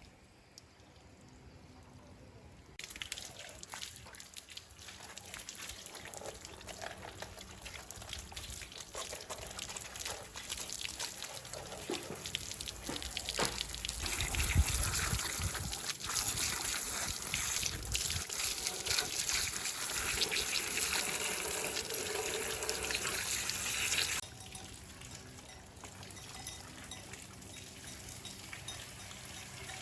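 Running liquid, a steady trickling, pouring noise. It starts a few seconds in, grows louder about halfway through and cuts off suddenly near the end.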